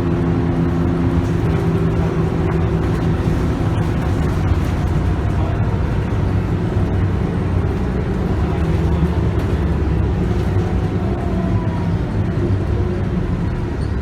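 Scania K280UB bus's 9.3-litre five-cylinder diesel and ZF Ecomat automatic gearbox, heard from inside the bus while it is under way. A steady engine drone in the first second or two turns into a heavier rumble of engine and road noise, with a faint falling whine about ten seconds in.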